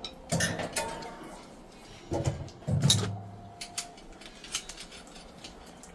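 Metal tools and pipe fittings clinking and knocking as a water-heater fitting is unthreaded: a few scattered clanks in the first half, one with a brief metallic ring about three seconds in.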